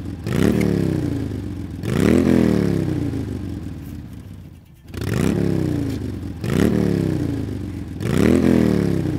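Truck engine revved in five throttle blips. Each one rises quickly in pitch and falls back slowly toward idle, with a short pause about four seconds in.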